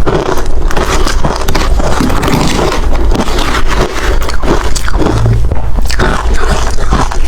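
Hard ice being chewed and crunched close to the microphone, a dense run of rapid crackling crunches without pause.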